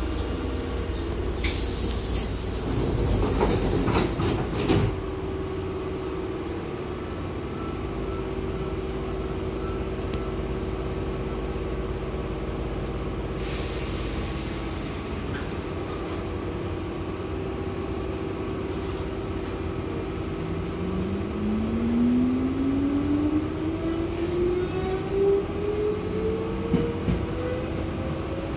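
Hankyu train's sliding doors closing with a burst of air hiss that ends in a thud a little over four seconds in, and another hiss of air near the middle. Then the motors' whine rises steadily in pitch as the train pulls away and gathers speed.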